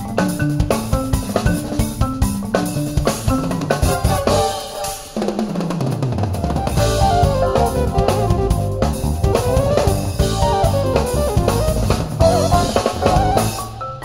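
Live band music played through Denon AH-D7200 closed-back headphones: drum kit and electric bass playing a riff, with a brief break about five seconds in where the bass slides downward. A higher melody line then plays over the drums and bass.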